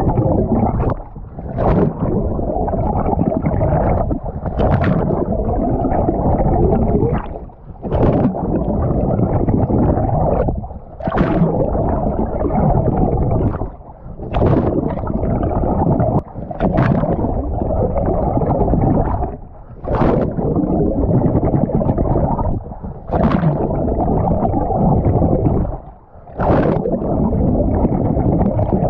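Water rushing and gurgling around a swimmer's camera during front crawl. Every two to three seconds there is a brief drop and a short splash.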